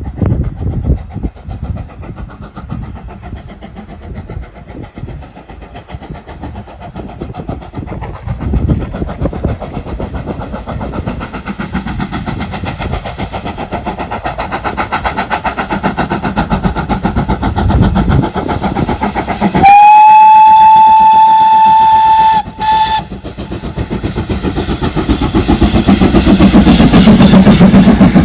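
Steam locomotive running, its rhythmic beat and wheel clatter growing louder as it approaches. About two-thirds of the way through it sounds its whistle: one long blast of nearly three seconds, then a short toot.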